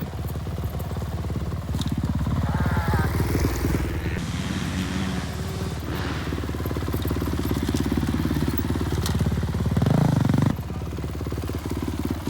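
Dirt bike engine running with the throttle worked up and down, a louder burst of revs about ten seconds in that cuts back abruptly.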